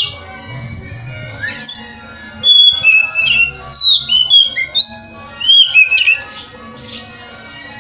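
Oriental magpie-robin singing. A sharp falling note comes at the start, then from about two and a half seconds in there is a quick run of loud, varied whistled notes, rising and falling, which ends about six seconds in.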